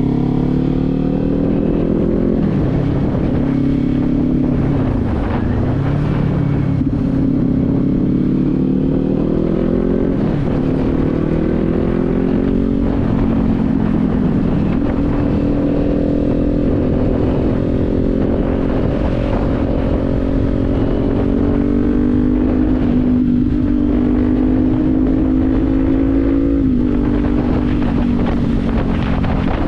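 Kawasaki Z400's 399 cc parallel-twin engine riding on the road. Its pitch climbs and falls back several times through gear changes in the first dozen seconds, then holds a steady cruising note, and drops once more near the end.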